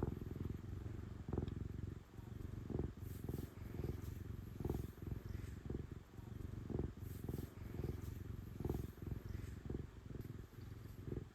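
Domestic cat purring loudly and continuously, a low rumble that swells and dips roughly once a second.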